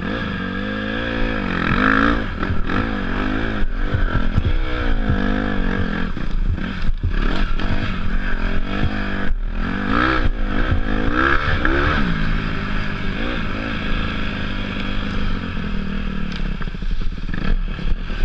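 Dirt-bike engine revving up and down over and over as the throttle is worked, with sharp clattering knocks now and then.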